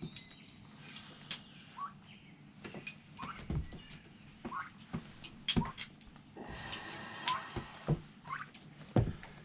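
Irregular metal clicks and knocks from a socket, ratchet and extension being handled and fitted, with short rising chirps, like a small bird's, every second or two.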